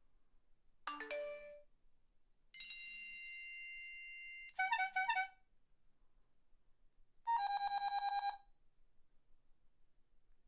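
Electronic alarm tones in short separate bursts: a quick falling run of beeps, then a held electronic tone that breaks into a few rapid beeps, then about a second of fast-pulsing beeps.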